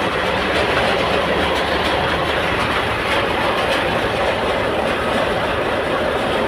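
Heavy machinery engine running steadily with a dense, continuous rumble, from the excavator and boat working to raise a sunken sand barge.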